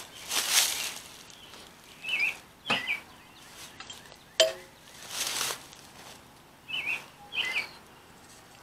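A bird calls twice, each call a pair of short chirps, about four and a half seconds apart, over a few soft bursts of rustling. About four seconds in comes a single sharp metal clink, the loudest sound here, from the steel hydrant parts being handled.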